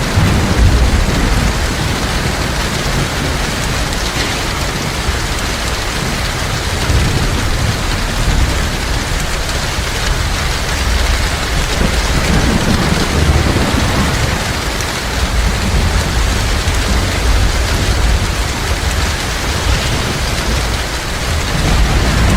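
Heavy rain falling steadily, with low thunder rumbling underneath that swells and fades.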